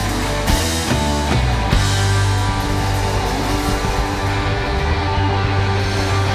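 Live rock band playing electric guitars, bass and drums with no singing. A few hard drum hits land in the first two seconds, then guitar chords ring out over a wash of cymbals.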